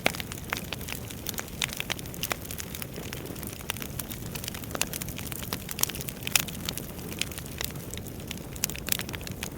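Wood fire burning in a fireplace: irregular sharp crackles and pops from the burning logs over a steady low rush of flame.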